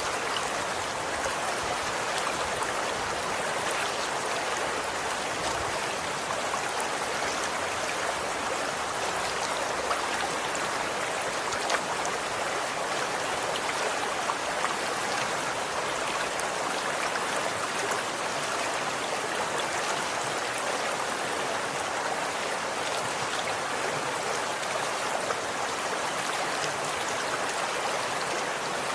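Running water flowing steadily: an even, unbroken splashing hiss with no pauses or changes.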